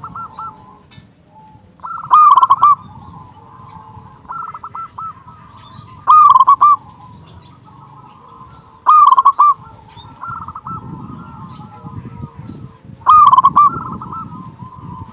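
Zebra dove (perkutut) singing its cooing song. A loud phrase comes about every three to four seconds, four times, with softer cooing phrases in between.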